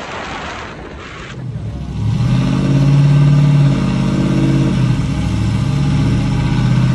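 A truck engine running and being revved, its pitch rising and falling in steps, after a short hiss in the first second or so.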